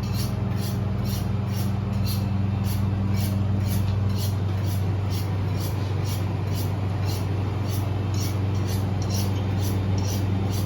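Motor-driven chicken plucker running: a steady motor hum with a rhythmic swishing about three to four times a second.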